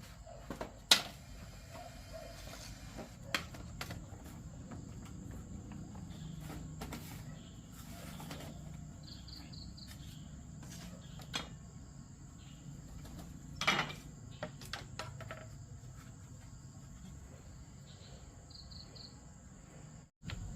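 Insects chirping steadily, with short triplet chirps twice. Several sharp knocks and clicks break in, the loudest about a second in and another a little past halfway.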